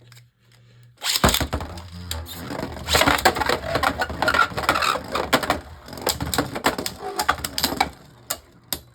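Two Beyblade Burst spinning tops, Harmony Pegasus against Eclipse Genesis, launched into a plastic stadium about a second in, then clashing with rapid clicks and rattles for several seconds, tapering to a few scattered clicks near the end as the battle is decided.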